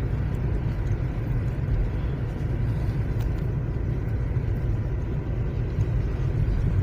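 Lada Vesta driving on a snow-drifted road, heard from inside the cabin: a steady low rumble of engine and road noise.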